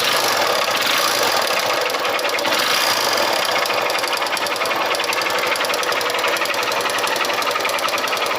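Honda Titan 150 single-cylinder four-stroke engine running with a rapid, steady metallic ticking clatter from the top end. The mechanic takes it for a noise between the rocker arm and the cam chain, more likely the cam chain.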